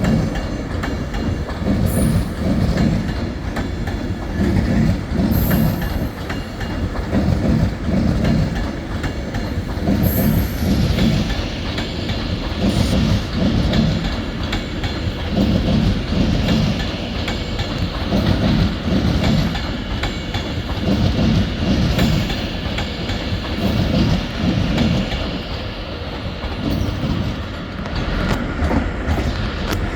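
A train rolling slowly through the station, its wheels clattering over rail joints in a steady, regular rhythm of about one beat a second.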